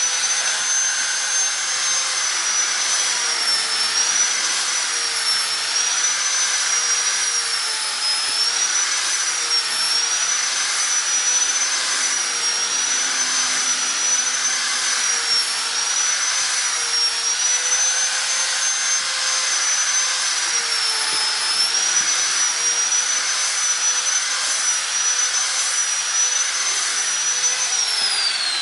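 High-speed handheld electric sanding machine (about 12,000 rpm, sandpaper fitted) running with a high whine that dips and recovers again and again as it is pressed against a bird-cage bar to sand its edges round. Near the end it is switched off and the whine falls away as it spins down.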